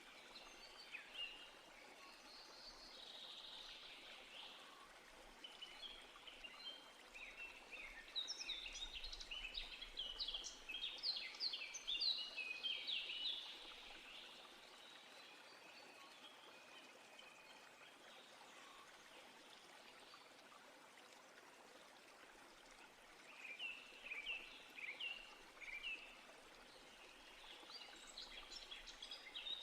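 Songbirds singing in bursts of quick chirps and trills, busiest in the middle and again near the end, over a faint steady background hiss.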